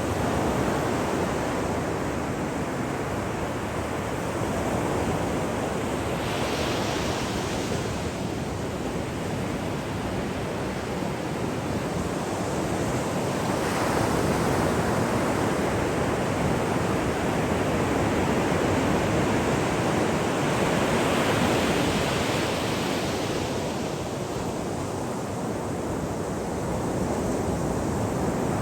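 Ocean waves breaking on a shore: a continuous wash of surf that swells and eases as successive waves come in, with a few louder surges of breaking water.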